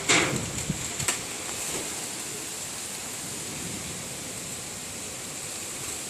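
Strong wind blowing in a steady rush, with two short knocks in the first second or so.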